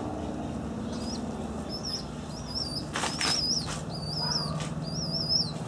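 A small bird repeating a short, wavering high chirp about every two-thirds of a second, over a steady low hum, with a brief rustling burst about three seconds in.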